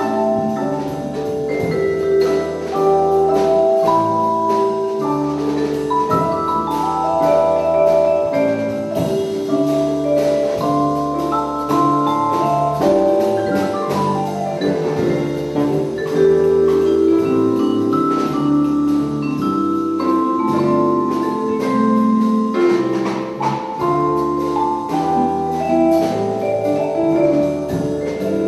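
Jazz ensemble playing, with a vibraphone carrying a ringing melody of many quick notes over bass and light drums.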